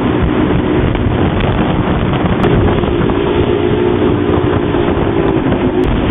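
Engine of a moving tour vehicle running steadily, under heavy wind noise on the microphone. Its pitch steps up about two and a half seconds in and drops back near the end.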